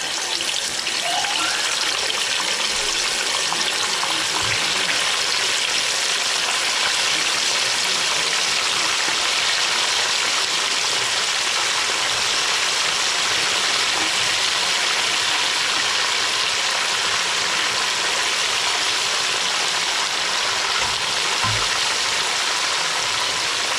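Food sizzling steadily in hot oil in a frying pan, just after it has gone in to cook.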